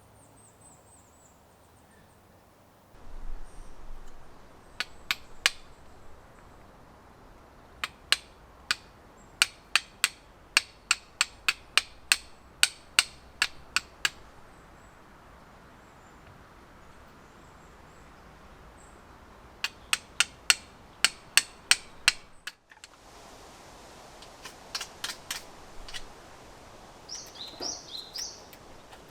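Two runs of sharp, evenly spaced knocks, about two a second, the first lasting several seconds and the second shorter, with a few bird chirps near the start and near the end.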